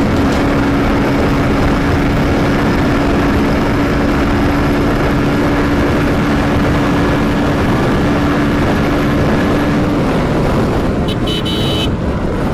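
Bajaj Pulsar 150's single-cylinder engine running steadily at highway cruising speed, heard under heavy wind rush on the rider's microphone. The steady engine hum fades about ten seconds in.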